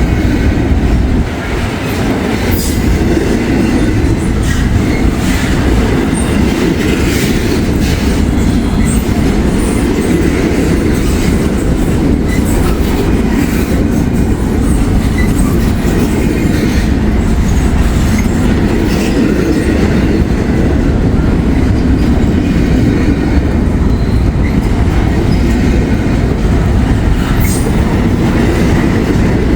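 Freight train rolling past close by: a loud, steady rumble of cars with wheels clacking over the rail joints and occasional brief high wheel squeals.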